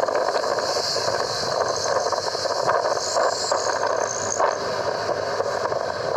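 A truck running, giving a steady mix of engine and road noise.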